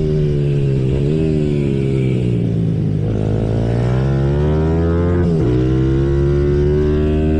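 Symoto 140cc pit bike's single-cylinder four-stroke engine under way on track, heard from on board: the revs fall off about a second in, climb hard from about three seconds, drop sharply at an upshift near five seconds and climb again.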